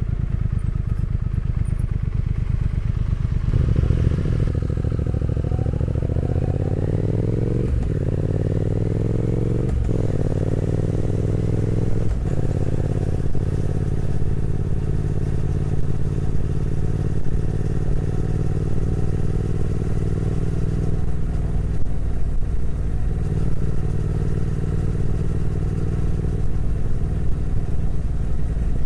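Motorcycle engine pulling away from a low steady idle a few seconds in. It revs up with rising pitch through three upshifts, then runs at a steady cruising engine speed.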